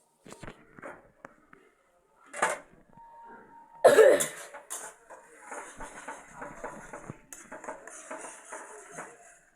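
Pots, pans and utensils clattering as food is cooked, with a few sharp knocks, the loudest about four seconds in, then a run of steady scraping clatter.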